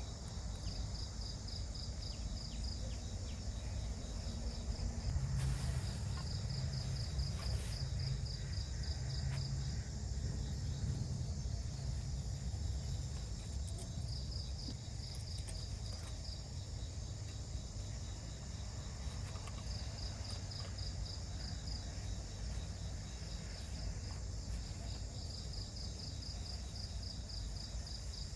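Insects chirping in repeated high, rapidly pulsed trills a second or few long, over a steady low rumble of background noise, with a couple of faint clicks about six and eight seconds in.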